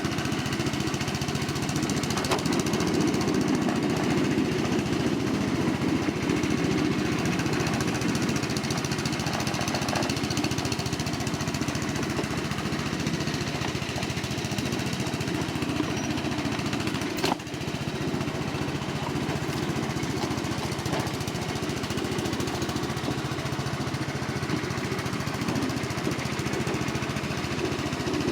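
Steady mechanical running noise of a ride-on 1/8-scale train moving along its track, with one sharp click about 17 seconds in.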